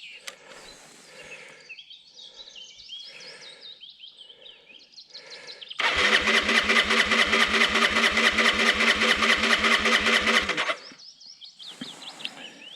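Birds chirping, then about six seconds in the Derbi Terra 125's single-cylinder engine turns over with an even, rapid beat for about five seconds and cuts off suddenly.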